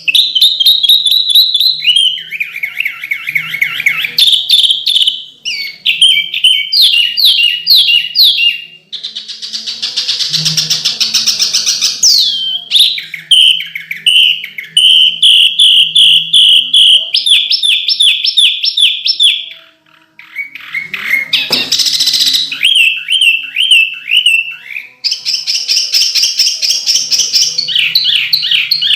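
Songbird singing loud, fast runs of sharp repeated whistled notes that switch to a new phrase every second or two: the dense, rapid 'tembakan' song style used as masteran for training caged birds.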